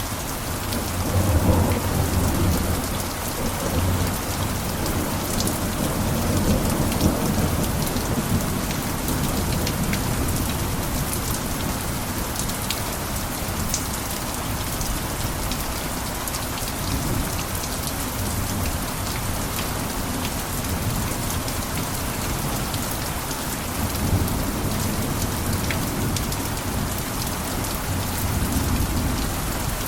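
Steady heavy rain pattering on a roof, with low rumbles that rise and fade a few times, about a second in, around seven seconds, and twice near the end.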